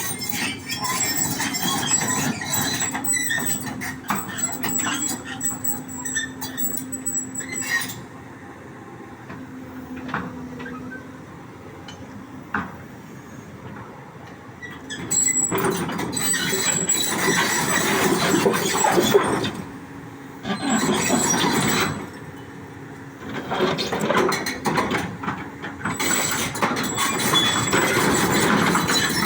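Excavator at work: its engine runs under a noisy mechanical clatter with metallic squealing. Loud stretches are broken by a quieter spell about a third of the way in and two short dips about two-thirds through.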